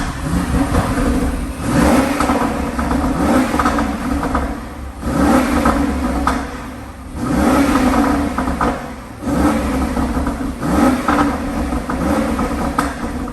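BMW X6 M50i's 4.4-litre twin-turbo V8 revved repeatedly through its exhaust: about eight quick blips, each rising sharply in pitch, with a few sharp pops in between.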